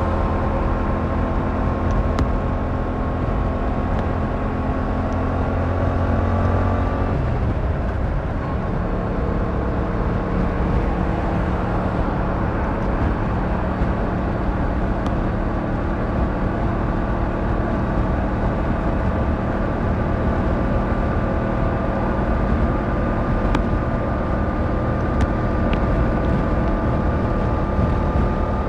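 Yamaha MT-07's 689cc inline-twin engine running under way, a steady engine note heard from the bike. The note breaks up briefly about seven seconds in, then settles again and slowly rises in pitch.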